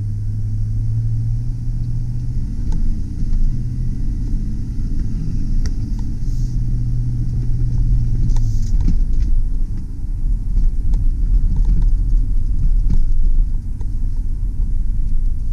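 A 2005 Chevy Silverado 2500 HD pickup's engine runs, heard from inside the cab as a steady low rumble. Its low hum holds steady, then changes about eight or nine seconds in.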